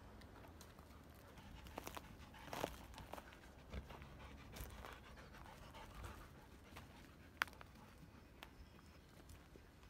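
Golden retriever panting softly, with scattered faint clicks and one sharp click about seven seconds in.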